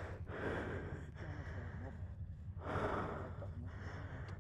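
A person breathing hard with exertion, two heavy breathy exhales about two and a half seconds apart, over a steady low hum.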